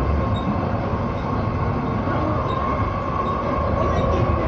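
Light-rail train car in motion, heard from inside: a steady low rumble from the wheels and running gear, with a faint steady whine.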